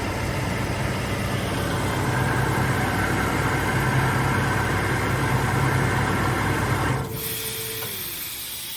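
Atlas Copco 3.7 kW oil-free scroll compressor running under load with a steady hum, then shutting off suddenly about seven seconds in as the receiver reaches its 8.5-bar cut-out pressure; a short falling tone follows as it winds down.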